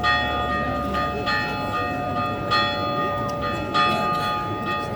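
A single church bell struck at an even pace, about once every second and a quarter, each stroke ringing on into the next.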